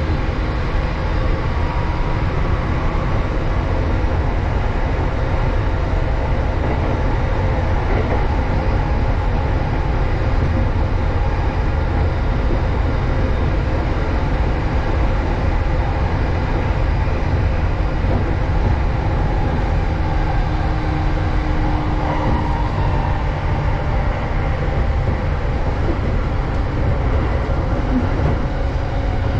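Running noise heard inside an electric commuter train on the JR East Tokaido Line: a steady low rumble from the train in motion, with no breaks or clear clacks.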